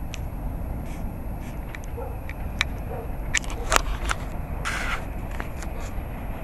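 Low steady rumble of an approaching commuter train, with a few sharp clicks and a short scuffing rustle from handling near the middle.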